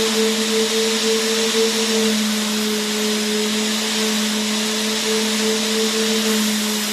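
Vacuum cleaner motor running steadily: a constant airy hiss over a low hum.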